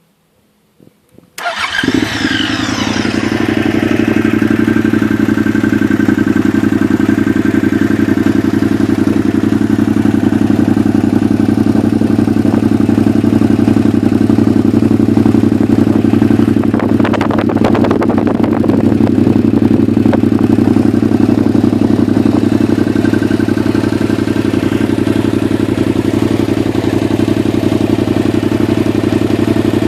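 Aprilia SRV 850's V-twin engine started on the button, catching about a second and a half in, then idling steadily through an Arrow exhaust with the dB-killer removed.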